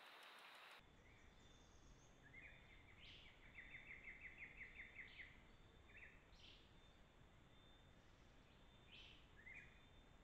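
Faint wild bird song: a fast run of repeated notes lasting about three seconds, with a few short separate calls before and after it.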